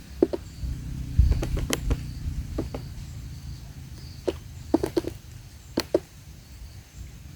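Woodpecker pecking at rotten wood: about a dozen sharp taps at irregular intervals, in small clusters, over a low rumble.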